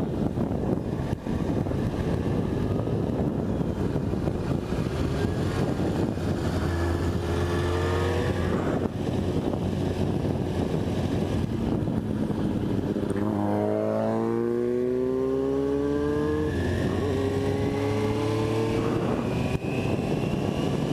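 Sport-bike engine pulling up through the revs and shifting gears several times, with a steep climb about two-thirds through, under steady wind rush on the microphone.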